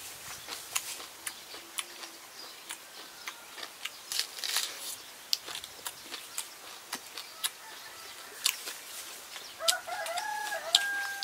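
Close-miked chewing of raw vegetables, with sharp irregular mouth clicks and crunches about twice a second. A rooster crows once, a long call starting about ten seconds in.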